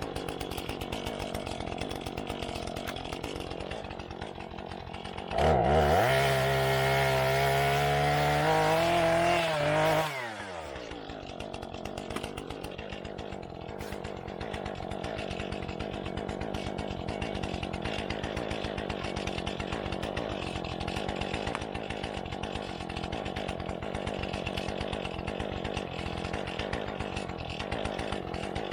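Two-stroke chainsaw idling, revved up hard for about four and a half seconds partway through, then dropping back to idle with a falling whine.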